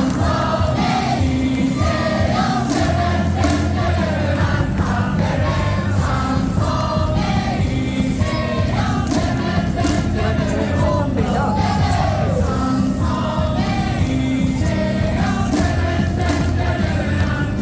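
Baseball stadium crowd singing a cheer song in unison over loud amplified music, with a steady beat of drums and claps.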